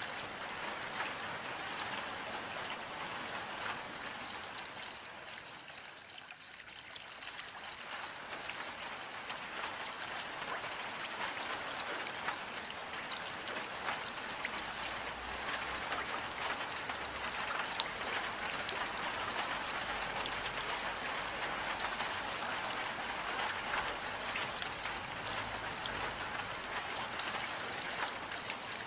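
Steady rain falling, a dense even hiss of many small drops pattering, easing briefly about six seconds in.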